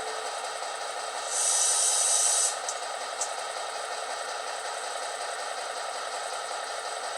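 ESU LokSound v5 decoder playing a diesel switcher idle through the HO-scale MP15DC model's small sugar-cube speakers, with a burst of hiss about a second in that lasts about a second, followed by two light clicks.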